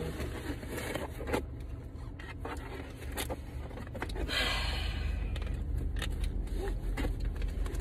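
Scraping and rustling of a car-accessory package being handled, with scattered sharp clicks, over the low steady hum of the car's engine running.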